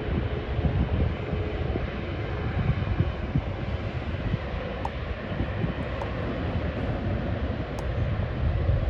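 Steady rumble of jet airliner engines, heard through gusty wind buffeting the microphone.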